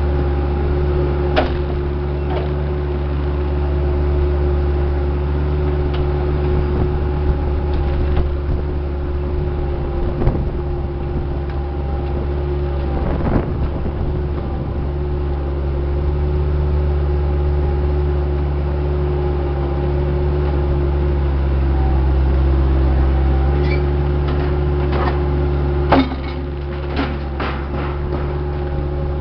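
Diesel engine of a piece of earthmoving equipment running steadily under work, with scattered clanks and knocks, the loudest a bang a little past the midpoint of the last third.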